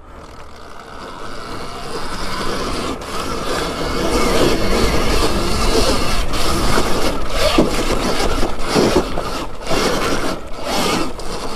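Alta Redshift MXR electric dirt bike climbing a steep loose hill, its rear tyre spinning and sliding in the dirt. The noise builds over the first few seconds and stays loud, broken by many sharp knocks and scrapes from the bike over the ground.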